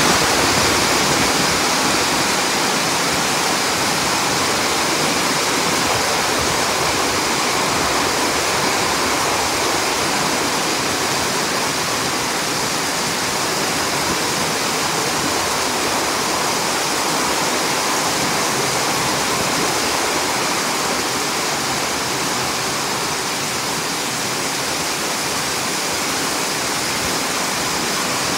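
Heavy downpour of rain: a dense, steady hiss.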